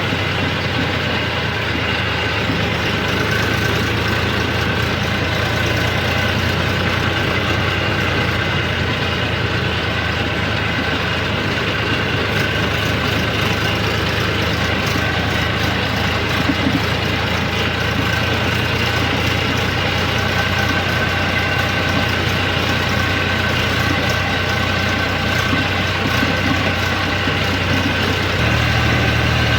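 Eicher 333 tractor's three-cylinder diesel engine running steadily, with a slight change in its note near the end.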